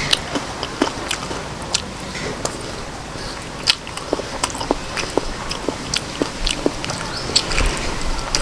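A person chewing and biting a mouthful of octopus and rice noodles close to the microphone, with irregular short smacks and clicks from the mouth.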